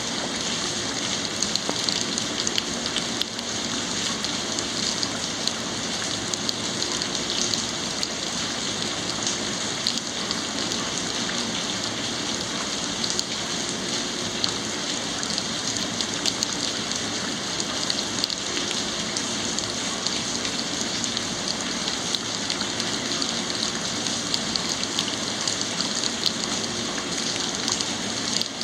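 Steady thunderstorm rain falling, with many sharp individual drop hits close by.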